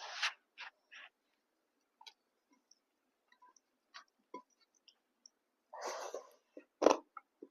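Close-miked eating sounds: scattered wet mouth clicks and chewing, with a louder smacking burst about six seconds in and a sharp click just after.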